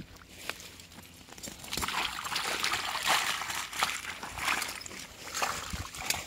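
Water sloshing and splashing in an irregular run of small splashes, starting a little under two seconds in.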